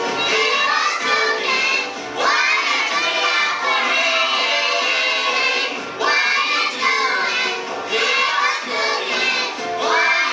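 A song with a choir of children's voices singing, a new phrase starting about every four seconds.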